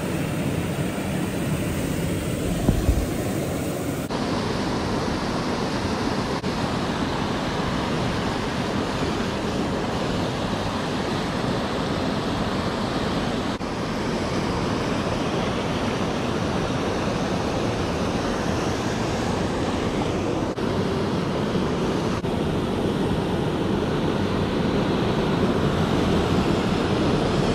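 Mountain creek water rushing steadily over rocks, with a brief low thump about three seconds in.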